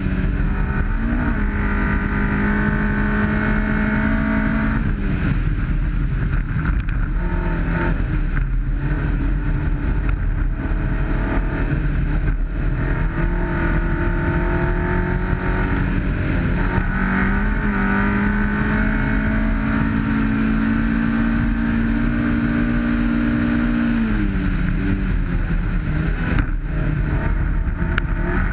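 1991 Honda CRX rally car's twin-cam ZC 1.6-litre four-cylinder running hard at steady high revs, with tyre and road noise from the dirt stage. The engine note drops briefly twice: about five seconds in and a few seconds before the end, as the driver lifts or changes gear.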